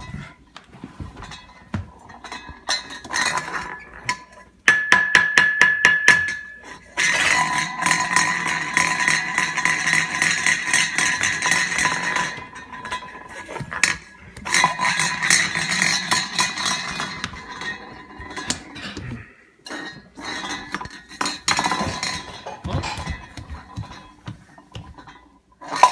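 Dishes and silverware clinking and clattering in an open dishwasher, in bursts, with a fast rattling run of clicks about five seconds in.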